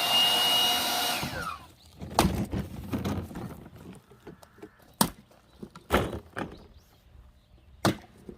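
A battery-powered tool's electric motor whines at a steady pitch, then winds down about a second and a half in. After that, pieces of firewood knock and clatter against each other several times, sharp wooden thuds a second or so apart.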